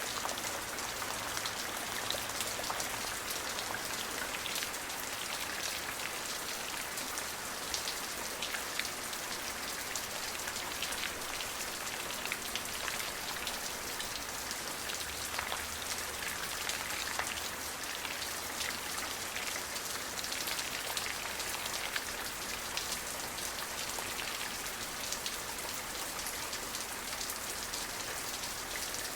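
Steady rain falling, an even hiss of drops with many small individual drop taps on a hard surface.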